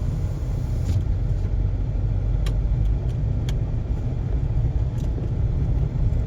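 A moving car's steady low road and engine rumble, with a few faint clicks.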